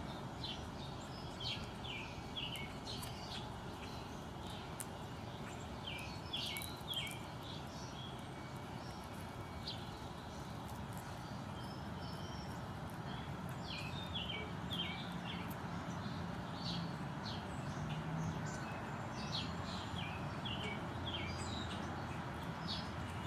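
Small birds chirping, many short calls in quick succession throughout, over a steady outdoor background hum.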